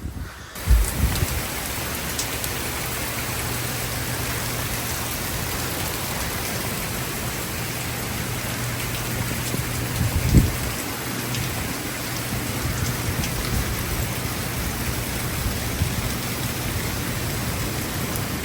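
Heavy thunderstorm rain pouring steadily. It comes in suddenly just after the start, with low thumps about a second in and about ten seconds in.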